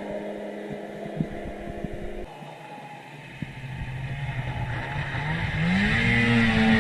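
A small vehicle engine running, dropping off about two seconds in, then revving up with its pitch climbing and getting louder toward the end.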